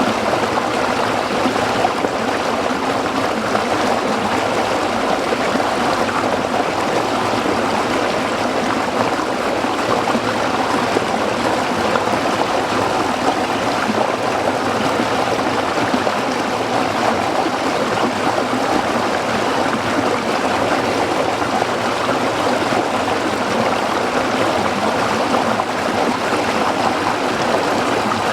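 Small stream flowing and burbling over rocks, a steady, even rush of water.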